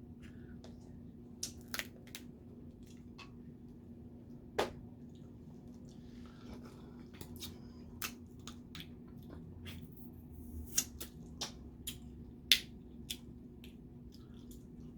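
Snow crab legs being cracked and snapped open by hand: sharp cracks and clicks at irregular intervals, with soft squishing in between, over a steady low hum.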